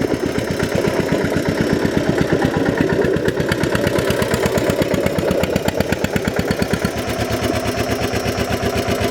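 Tractor engine running steadily, with an even, rapid chugging beat.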